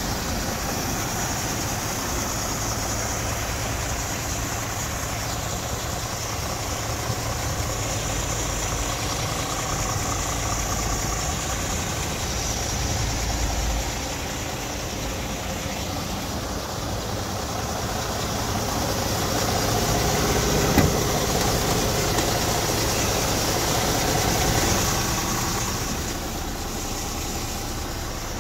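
Scania R440 truck's diesel engine idling steadily, with one short sharp click about two-thirds of the way through.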